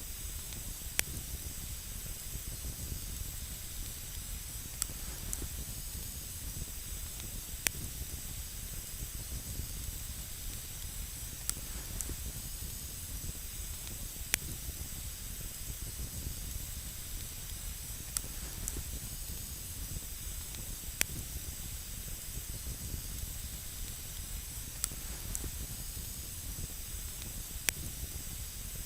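Wood campfire burning with a steady hiss and sparse sharp crackles, one every few seconds.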